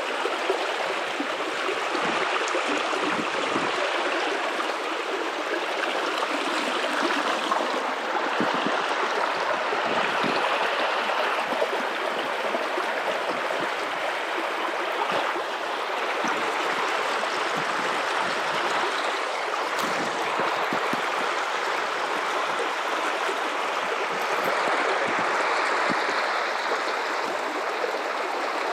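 Guadalupe River water running over rocks in a steady rushing flow with fine gurgling detail.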